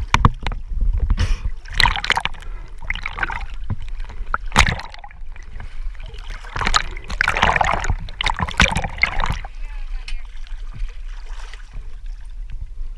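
Water splashing and sloshing in irregular bursts, with a few sharp knocks, over a steady low rumble.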